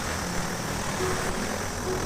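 Steady hissing rush of a steam cleaner's jet spraying a car engine bay, with no breaks.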